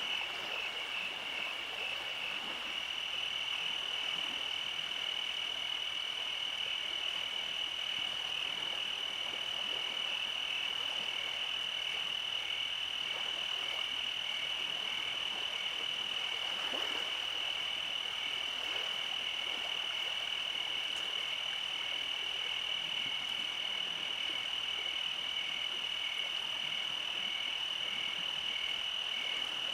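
Frogs calling in a steady night chorus: a continuous high trill with a regular pulsing call beneath it, unchanging throughout.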